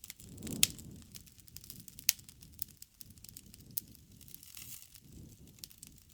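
Campfire crackling: irregular snaps and pops of burning wood, with two louder pops about half a second and two seconds in, over a soft low rumble of the flames.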